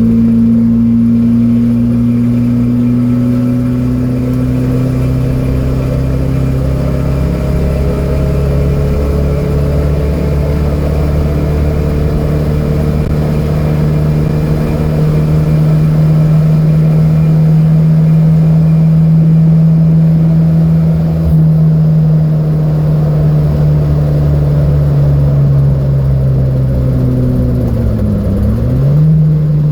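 Datsun B210 engine running hard at high revs under load. The pitch climbs slowly over the first several seconds and then holds steady. Near the end the revs drop sharply and come straight back up.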